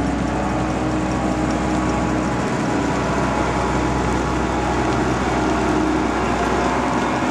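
Engine of a large farm machine, a tractor or combine, running at a steady speed: a constant, unchanging drone.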